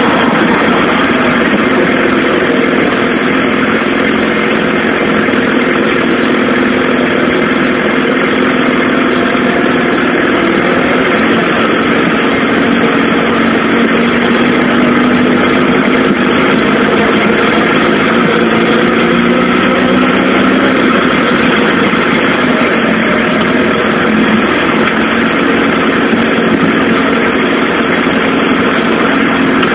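Suzuki GSX-R SRAD inline-four motorcycle engine running steadily on the move, its note holding an even pitch with only slight wander, over a steady rushing noise.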